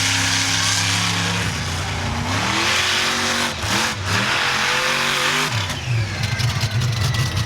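Monster truck engine revving. Its pitch climbs about two seconds in, holds high with a brief dip near the middle, then drops back toward idle a little past five seconds.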